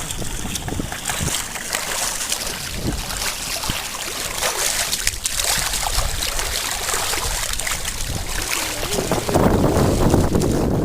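Water washing and trickling along a canoe's hull as it moves, with wind buffeting the microphone; the rush gets louder about nine seconds in.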